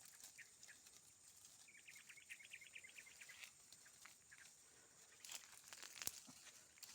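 A quick run of about a dozen high, thin chirps from a small bird, lasting about two seconds, with faint rustling and a sharp click near the end.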